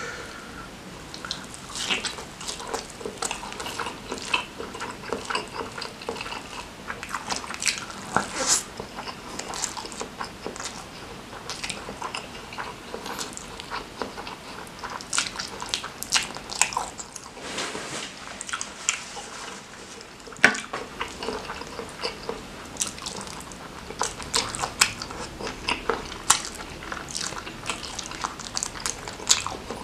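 Close-miked eating sounds: wet chewing and lip smacking as mouthfuls of rice, curry gravy and spicy Samyang noodles are eaten by hand, with many short, irregular clicks throughout.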